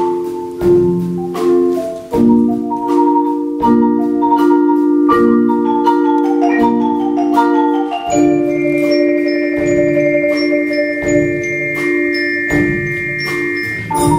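Percussion ensemble of mallet instruments (marimba, vibraphone, glockenspiel) playing held chords, with a stepping run of high notes over them and a struck accent about every second and a half; near the middle several high notes ring on together to the end.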